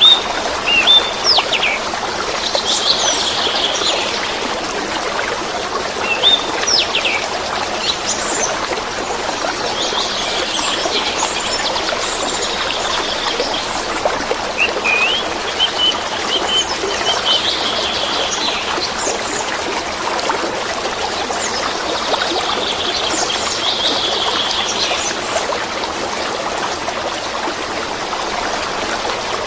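Steady rush of babbling, flowing water, with small birds chirping and trilling above it in short bursts every few seconds.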